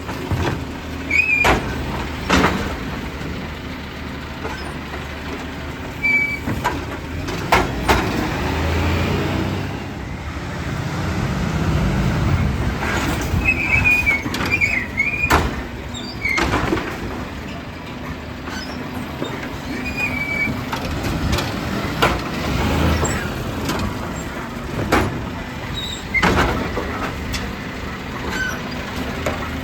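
Garbage truck engine running, with a dozen or so sharp clanks and knocks and several brief high squeals.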